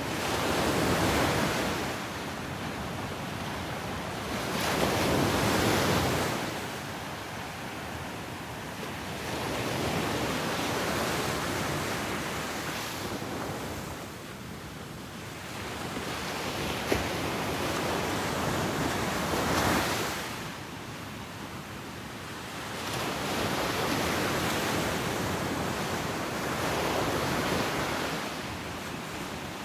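Ocean waves breaking and washing up a beach, the surf swelling and fading in slow surges every few seconds.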